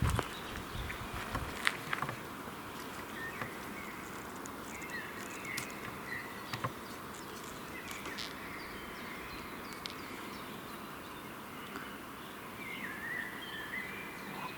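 Forest ambience: a steady buzz of flying insects, with faint wavering bird calls around the middle and again near the end. A few sharp clicks or snaps come in the first two seconds.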